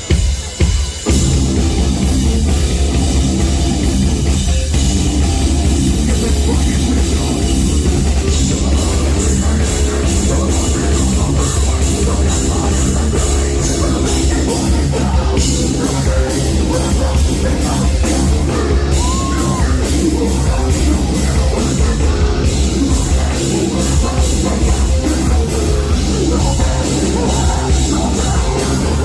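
Live heavy metal band playing loud, with drum kit, after a few short stops in the first second.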